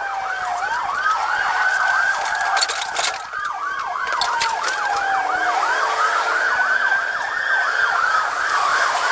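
Police car siren sounding during a pursuit: a slow wail rising and falling over several seconds with a fast yelp running over it at the same time. A few brief clicks come about three seconds in.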